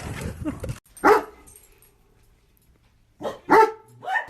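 A dog barking: one bark about a second in, then a quick run of barks near the end after a short pause.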